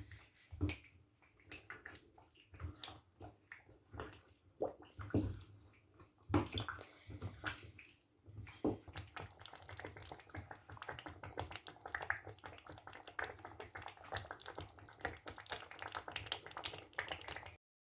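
Faint wet clicks and pops from a pot of chicken stew, sparse at first and becoming dense and continuous about halfway through, then cutting off suddenly near the end.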